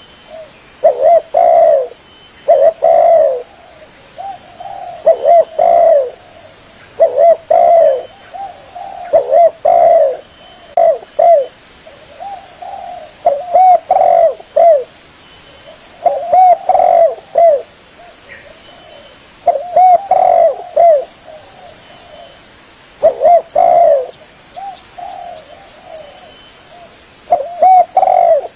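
Spotted dove (tekukur) cooing: loud, repeated short phrases of low coos, with a new phrase every second or few seconds. It is a recorded dove song played as a lure call for trapping doves.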